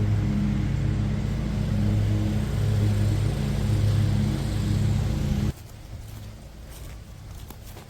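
A vehicle's engine running steadily with a low hum, cutting off abruptly about five and a half seconds in; a few faint clicks follow.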